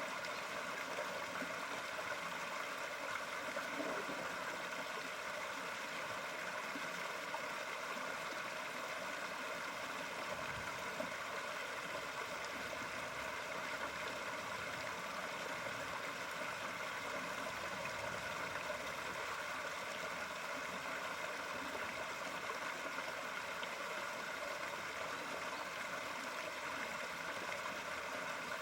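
Steady running water: a continuous, even rush with a light gurgle and no breaks.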